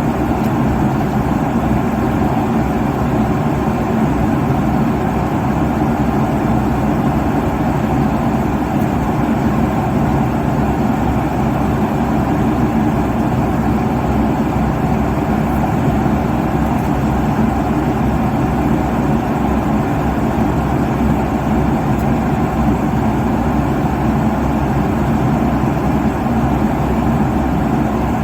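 Steady drone of an airliner's cabin at cruise altitude: jet engine and airflow noise, even and unchanging, with most of its weight in the low and middle range.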